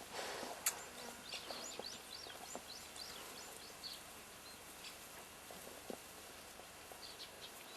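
Faint, quick high chirps of a small bird in a rapid run, over a quiet outdoor background with a few soft clicks.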